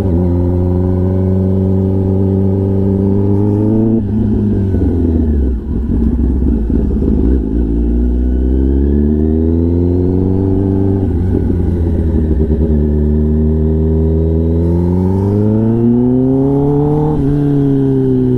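Kawasaki Ninja ZX-10R inline-four through an SC-Project aftermarket exhaust, heard while riding: the engine note rises and falls with the throttle, with several gear changes and a rougher stretch off the throttle after the first one.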